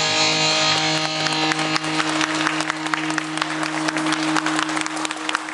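The closing held chord of recorded yosakoi dance music ringing out and stopping near the end, with a crowd's applause breaking out about a second and a half in and growing.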